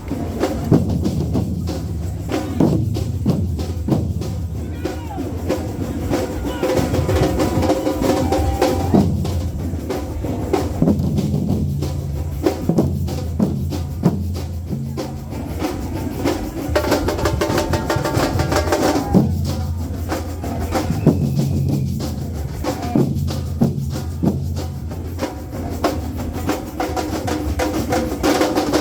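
A band's rhythm section playing: a drum kit with bass drum and snare hits over a bass line whose low notes change in steps.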